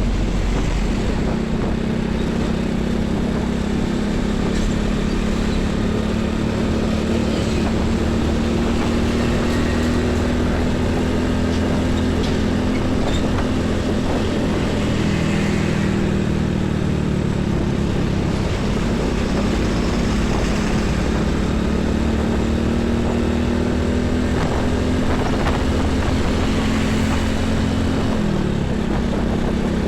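Heavy truck engine running steadily close by, over the noise of passing road traffic; its note drops a step near the end.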